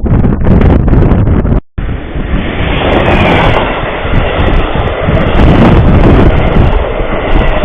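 A train passing close by, heard through a trail camera's small microphone as a loud, dense rumble and rush with wind buffeting the mic. The sound cuts out completely for a moment a little under two seconds in, then carries on.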